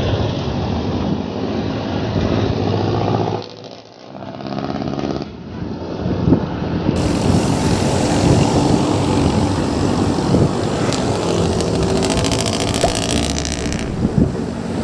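Road traffic running past on a busy road, with engine sounds from passing vehicles over a steady rush of tyre and wind noise. There is a brief lull about three and a half seconds in.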